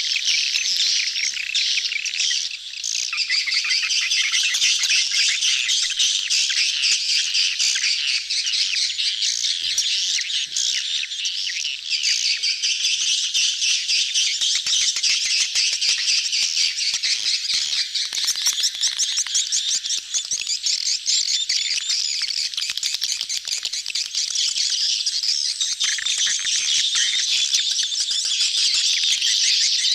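A dense crowd of edible-nest swiftlets chirping and twittering without pause, the rapid overlapping chitters of a colony in mating display.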